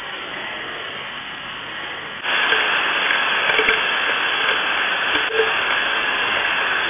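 Steady hiss of heavy rain picked up by a security camera's microphone, jumping louder about two seconds in; before that, a quieter steady hiss.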